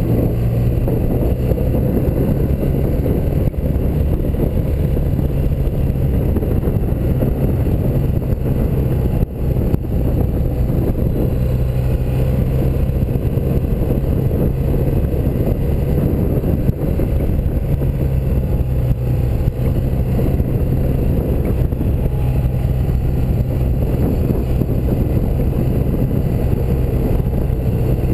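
1984 BMW R100RS's air-cooled flat-twin boxer engine running steadily under way, with wind and road noise. Its level dips briefly about nine seconds in.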